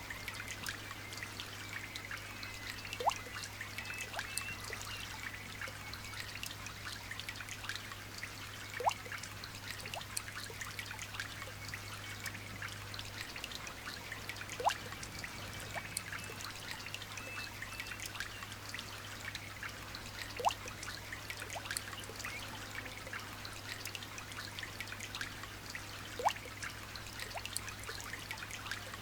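Light rain dripping and trickling steadily. A short plop that falls in pitch recurs about every six seconds.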